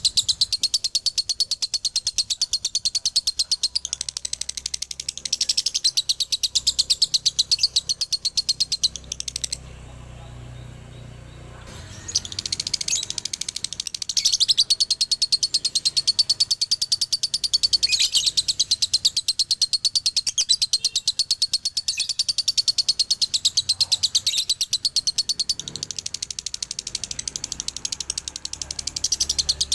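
Male lovebird singing a long, fast chattering song of high-pitched chirps repeated many times a second. It breaks off for about two seconds a third of the way in, then resumes.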